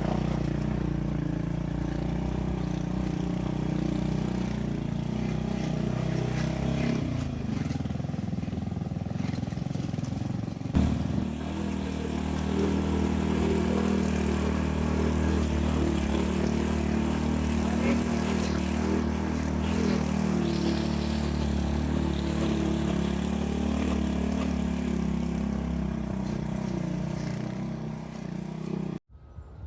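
Motorcycle engine running steadily while riding. Its tone changes about seven seconds in and again after a sharp knock about eleven seconds in. The sound cuts off suddenly near the end.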